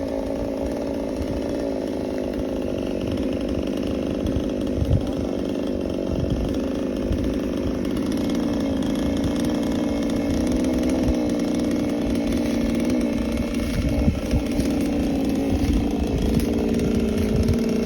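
Chainsaw engine running steadily at high revs while cutting through a tree branch.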